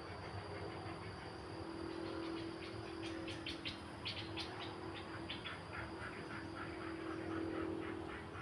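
Steady wind noise with a low steady tone under it; from about three seconds in, a bird calls in a quick run of short notes, several a second, that step down in pitch.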